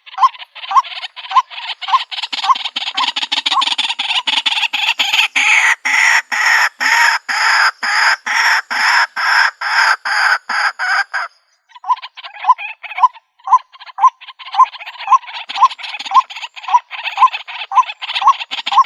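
White-breasted waterhen calling: a steady, rhythmic run of repeated notes at about three a second. Harsher, croaking calls run over the notes for the first half and break off briefly about eleven seconds in, then the repeated notes resume.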